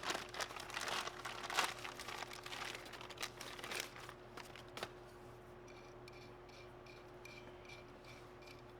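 Rustling and clicking of parts and packaging being handled, busy for about four seconds and then dying down to a few faint light ticks over a steady low hum.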